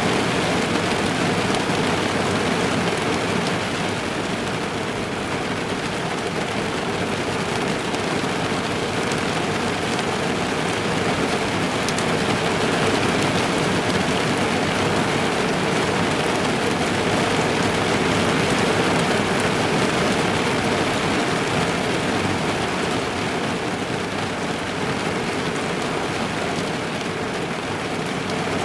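Steady rain falling on a car's roof and windows, heard from inside the car.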